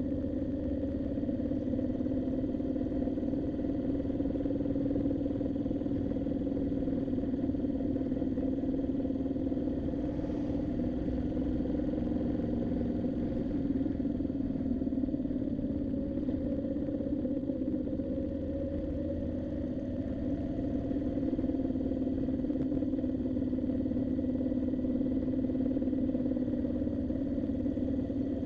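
Twin-cylinder motorcycle engine running steadily at cruising speed over a low rumble. The engine note falls a little about halfway through and climbs back a few seconds later.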